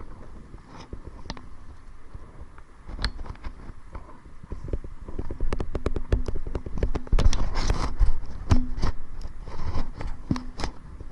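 Kayak paddling into a headwind: wind rumbling on the microphone, with a rapid run of knocks and splashes from the paddle and hull. The knocks grow busier and louder from about four seconds in.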